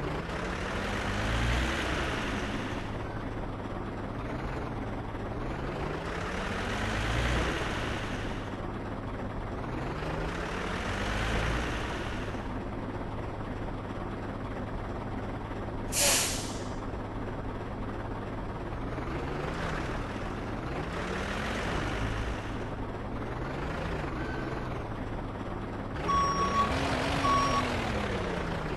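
Heavy truck engine running, its pitch rising and falling in repeated revs, with a short sharp air-brake hiss about halfway through and reversing beeps near the end.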